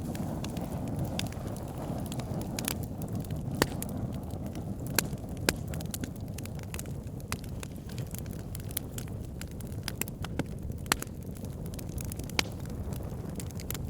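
Wood fire burning: a steady low rush of flames with frequent irregular crackles and sharp pops from the burning logs, a few pops standing out louder than the rest.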